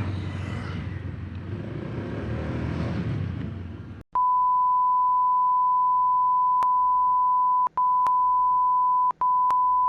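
Steady wind and road noise for about four seconds, then the audio cuts out abruptly and a single steady beep tone takes over, an edited-in bleep like a censor tone, broken by two very short gaps.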